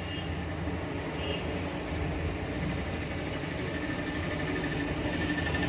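Electric exhaust fan running with a steady mechanical noise and low hum, the noise typical of worn motor bearings.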